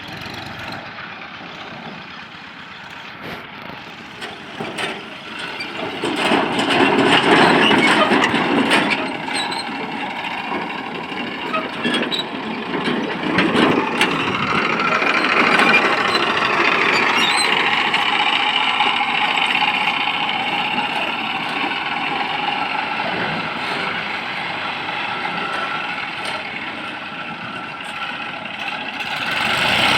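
TAFE 35D tractor's diesel engine running under load, growing louder about six seconds in.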